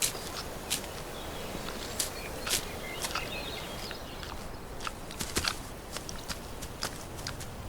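Brown bears moving about on the ground: scattered footsteps and crunches over a steady outdoor background.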